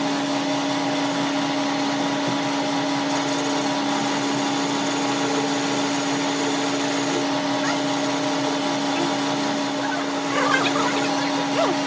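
Steady hum of a running motor with a constant tone. Near the end, brief wavering voices or calls sound over it.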